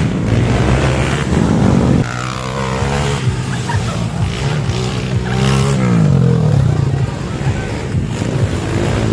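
Motocross dirt bike engines revving hard, pitch rising and falling through gear changes and throttle. There is a sudden drop in loudness about two seconds in and a falling-then-rising sweep past the middle.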